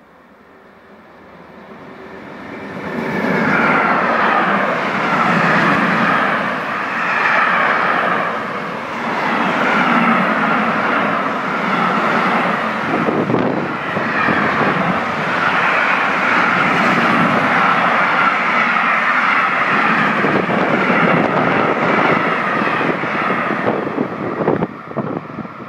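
Electric locomotive with a mixed freight train passing by. The sound builds over the first three seconds into a loud, steady rumble and clatter of wheels on rail, then falls away near the end with a few last clacks as the rear wagons go by.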